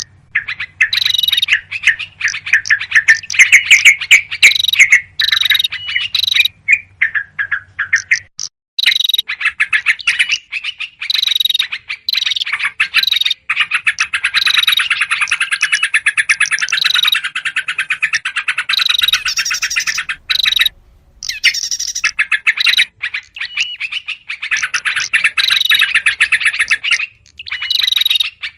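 Agitated yellow-vented bulbuls chattering loudly in dense, rapid runs of calls, played as a bird-lure recording mixed with other small birds. It stops abruptly for short gaps several times, about eight, thirteen, twenty and twenty-seven seconds in.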